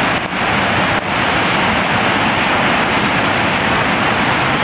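Heavy tropical-storm rain making a loud, steady, even rush.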